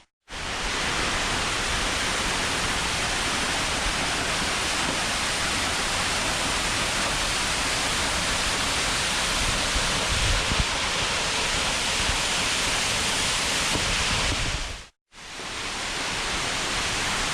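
Steady rushing of a waterfall, an even wash of water noise that drops out for a moment about fifteen seconds in.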